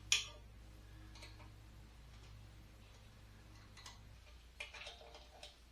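A few scattered sharp clicks and light taps from parts being handled on a workbench, the sharpest just after the start and several more near the end, over a steady low hum.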